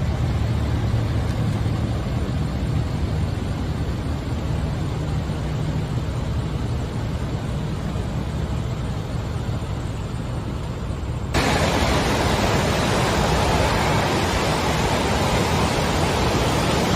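Steady rushing roar of floodwater, a dense noise with a deep rumble. About 11 seconds in it switches abruptly to a louder, brighter hiss.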